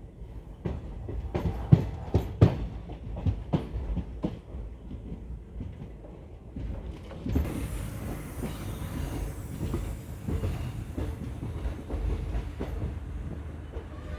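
Passenger train rolling slowly into a station, its wheels knocking irregularly over rail joints and points under a low rumble. A steady hiss comes in about seven seconds in.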